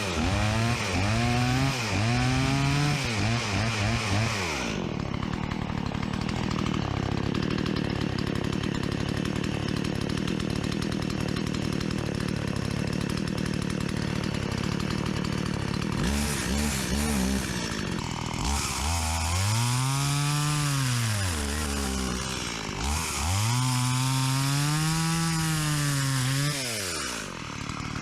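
Freshly rebuilt STIHL 017 chainsaw's two-stroke engine running: quick throttle blips at first, then a long stretch of steady high running. After that it is revved up and let fall back several times, the last two revs long, smooth rises and falls.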